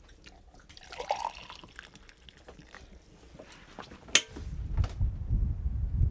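Faint scattered clinks and taps of spoons and dishes at a meal table, with one sharp clink about four seconds in. Right after it a low rumbling noise starts and grows louder.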